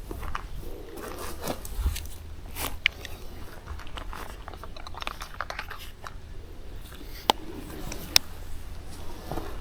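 Close, irregular crunching and rustling of dry forest-floor material being handled or stepped on, with two sharp clicks in the second half.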